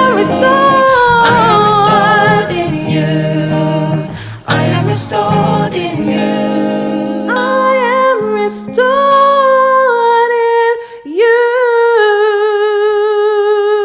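Female voice singing long wordless held notes over acoustic guitar; the guitar drops out about ten seconds in, leaving the voice alone.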